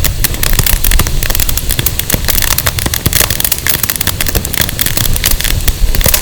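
Burning firewood crackling and popping in a dense, continuous stream of sharp snaps.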